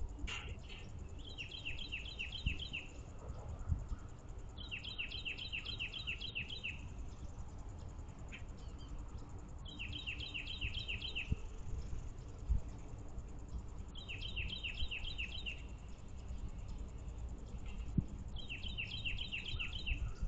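A songbird singing the same short song five times, each a quick run of about eight downslurred notes, over a steady low outdoor rumble.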